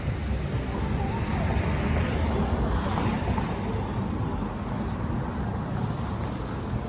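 Road traffic going past, a steady rumbling noise that swells a little about two to three seconds in.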